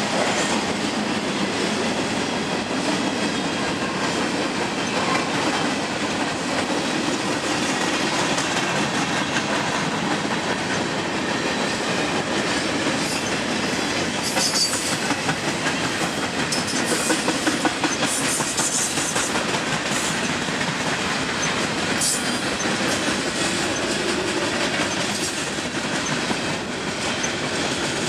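Freight train cars rolling past: steel wheels rumbling and clicking over the rail joints in a steady clickety-clack. Brief high-pitched squeals come in about halfway through and once more a little later.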